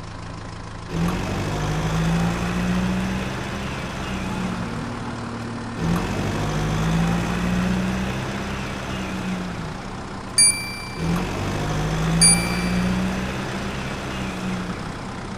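Vehicle engine-like running drone, repeated in three similar stretches of about five seconds each, with two short bell dings in the last third.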